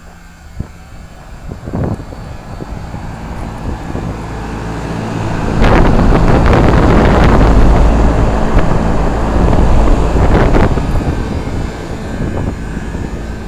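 1986 Trane 20-ton commercial air-conditioning condensing unit running: a steady low motor hum under the rush of air from its condenser fans. The air noise builds over the first five seconds as another fan section comes up to speed, stays loud for about five seconds, then eases slightly near the end.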